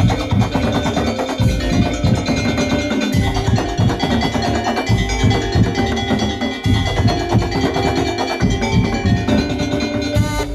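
Madurese tong-tong (ul daul) percussion ensemble playing: a dense run of quick strikes on wooden and pitched percussion, with deep drum hits underneath and ringing metal notes above.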